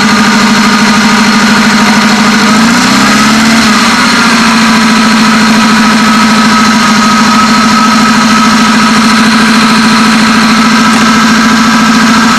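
1972 Toyota Corolla's four-cylinder engine idling just after a cold start in −15° frost; the revs lift briefly about three seconds in, then settle to a steady idle.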